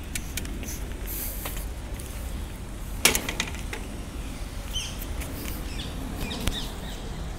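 Steady low rumble of bicycle riding and wind on the microphone, with scattered small clicks and a sharp knock about three seconds in; a few short bird chirps come in the second half.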